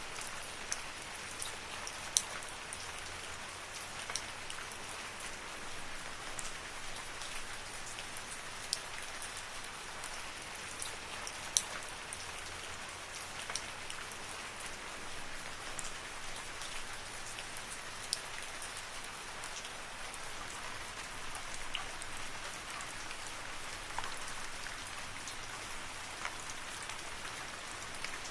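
Steady rain falling in a forest, an even hiss with the sharper taps of individual drops landing close by every second or so.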